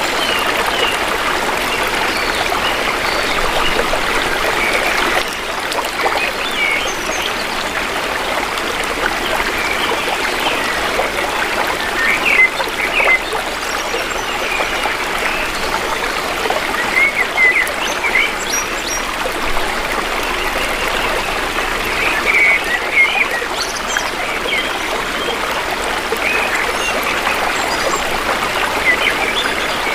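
Shallow river water flowing in a steady rush, with short bird chirps every few seconds.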